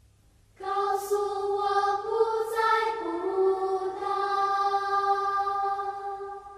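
Slow singing: one long phrase of held notes that begins about half a second in, changes pitch midway and fades out near the end.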